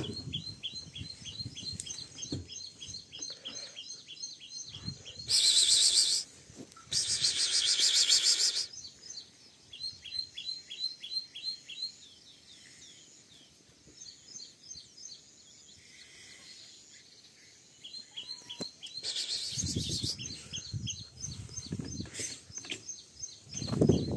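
Bird giving rapid runs of short high chirps, about five a second, in several bouts. Two loud rushing bursts of noise cover them about five and seven seconds in, and a low rumble rises near the end.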